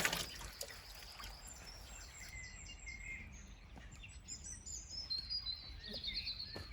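Wild birds chirping and calling: a run of short high notes about two seconds in, then a rapid trill near the end, over a faint steady background hiss.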